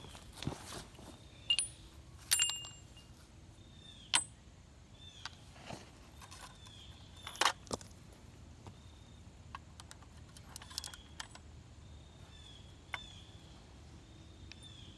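Scattered light metallic clinks and clicks, a few with a brief high ring, from metal weights being handled and fitted onto an RC truck. The loudest clinks come in the first half.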